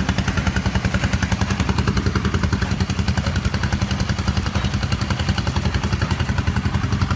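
A small engine running steadily at an even speed, with a fast, regular low beat.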